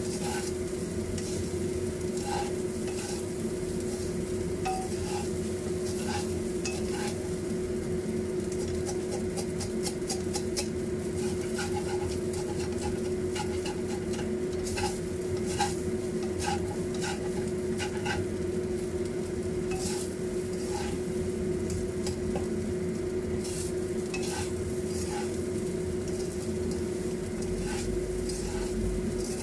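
Lumpia shanghai spring rolls sizzling as they deep-fry in oil, while a spatula scrapes and clacks irregularly against a wok as rice is stir-fried, over a steady low hum.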